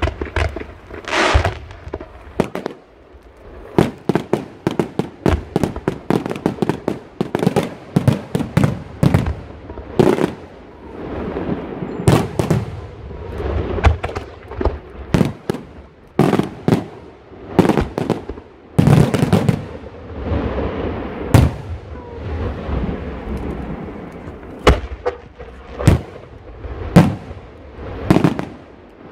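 Professional fireworks display: a long, irregular run of sharp bangs from launches and bursting aerial shells, some coming in quick clusters, with echoes trailing after the louder reports.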